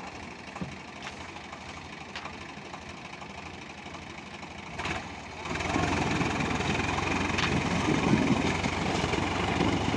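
Tractor engine idling steadily, then running louder and heavier from about halfway through.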